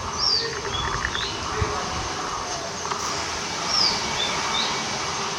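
Outdoor birds calling: a few short, high chirps that slide downward, twice, and several brief shorter notes, over a steady low rumble and hiss.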